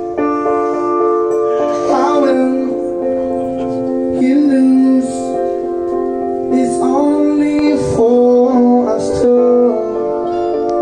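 Live acoustic band performance: sustained piano chords with a sung melody that comes in in short phrases.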